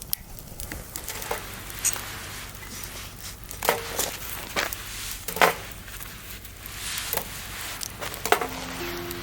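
Scattered light knocks and clicks over a faint background hiss, as of small camp gear being handled; soft music notes begin near the end.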